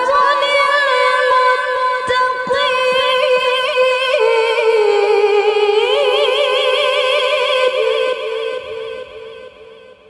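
A female Quran reciter draws out the word 'wal-'aqibatu' in one long, unbroken melismatic phrase, in a high, clear voice with wavering ornaments. The voice fades away over the last two seconds.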